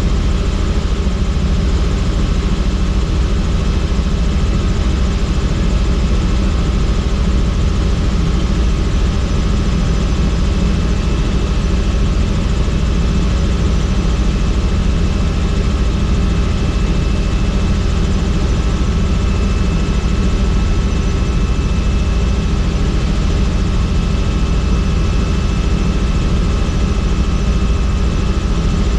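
Helicopter in flight, heard from on board with the doors off. Steady loud rotor and engine noise with a heavy low rumble and a thin high whine over it.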